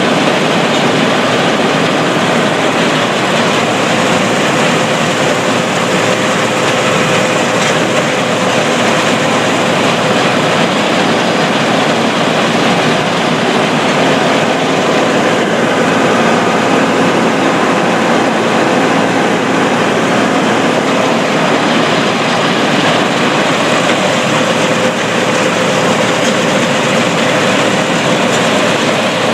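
Heavy farm harvest machinery running steadily: a loud, unbroken mechanical drone with a constant mid-pitched hum through it.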